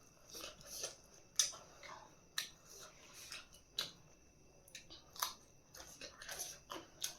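Eating sounds close to the microphone: chewing with irregular soft crunches and sharp mouth clicks, a few a second.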